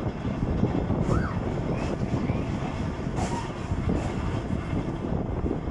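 Volks Electric Railway car running along its track: a steady low rumble of the wheels on the rails, with a few sharp clicks.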